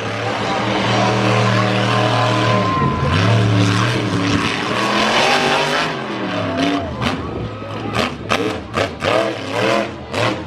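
Monster truck engine revving hard: held at high revs for a few seconds, dropping briefly and climbing again, then sliding down. In the second half come a series of short, quick revs.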